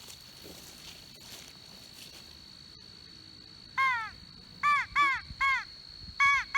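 DIY crow call blown in a series of loud, harsh caws: one, then a quick run of three, then two more, all in the second half. The caller is trying to draw in distant crows.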